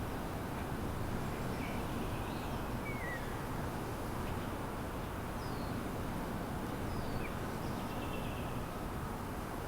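A few faint, short bird chirps, each a brief slurred note, scattered over a steady low background rumble.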